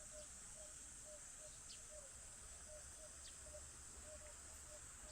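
Near silence: faint insects buzzing steadily in a high, even drone, with a soft short call repeated about three times a second underneath.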